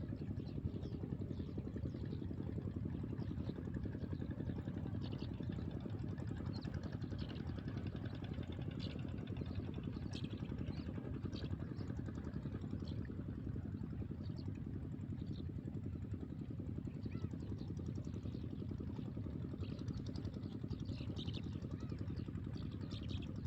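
A small engine running steadily at idle, with a fast, even pulsing, and a few short high chirps above it.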